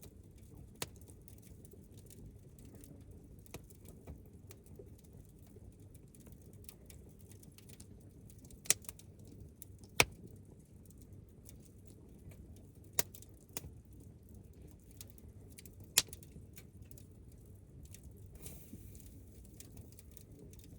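Wood campfire crackling over a low steady rumble, with occasional sharp loud pops scattered through it.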